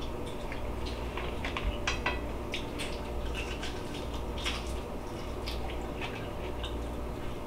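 Crunching and chewing as a person bites into a crispy air-fried chicken wing: quick irregular crackles of the skin, thickest in the first few seconds and thinning out near the end, over a steady low hum.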